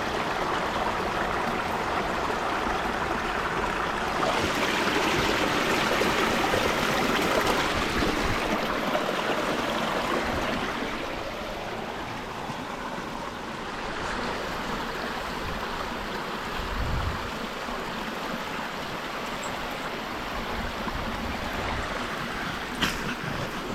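Steady rush of flowing river water, louder for several seconds in the middle and then easing off.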